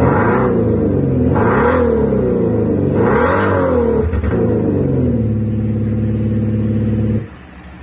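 Mercedes-Benz GLE400d diesel revved three times, its engine note boosted by an active-sound virtual exhaust speaker system, rising and falling with each blip. It then holds a steady idle note that cuts off suddenly near the end.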